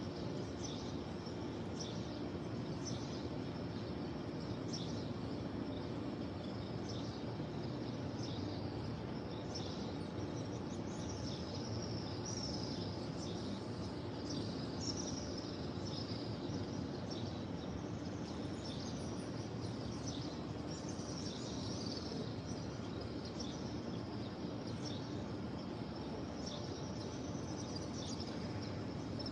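Small birds chirping in short, irregular calls over a steady background hum of ambient noise.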